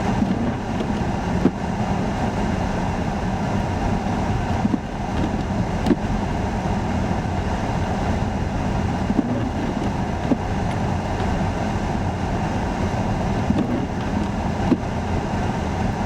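Steady low rumble of strong blizzard wind mixed with idling vehicles, with a few faint short knocks.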